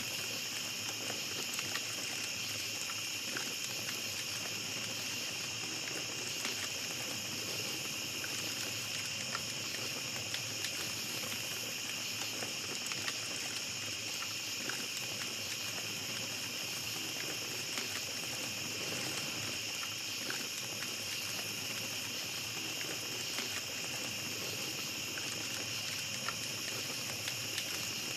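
Small campfire crackling with scattered soft pops, under a steady high-pitched chorus of night insects such as crickets.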